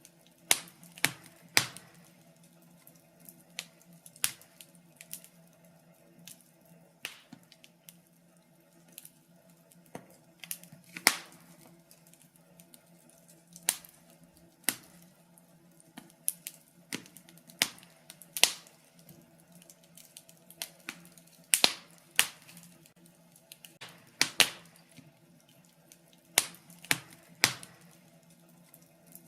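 Wood fire in a fireplace crackling, with irregular sharp snaps and pops, a few louder ones standing out, over a faint steady low hum.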